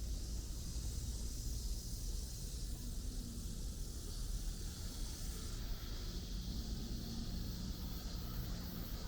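Steady outdoor city ambience: a constant low rumble under a high, even hiss, with the top of the hiss thinning about two thirds of the way in.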